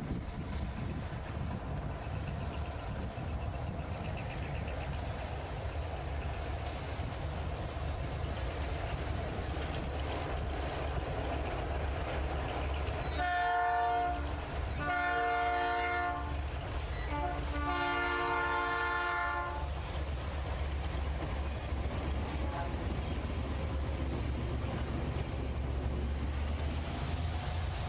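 Diesel freight locomotive air horn sounding three blasts, each longer than the last, in the middle of a steady low rumble.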